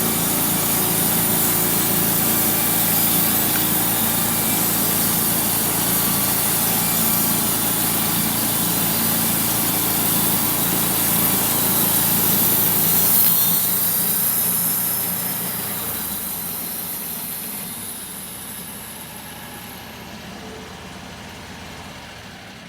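Engine-driven homemade sawmill with a double V-belt drive cutting a large walnut log: the engine runs steadily under load with the blade hissing through the wood. A little over halfway through, the deeper engine sound drops away and the whole sound fades as the cut finishes and the mill winds down.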